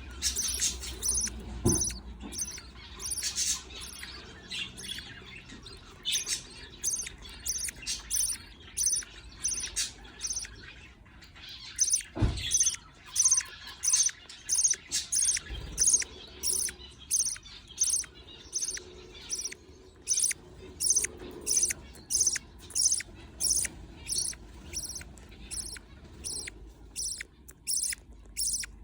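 Budgerigar chicks begging with high-pitched cheeps, repeated evenly about twice a second, as they are fed. Three dull thumps sound along the way.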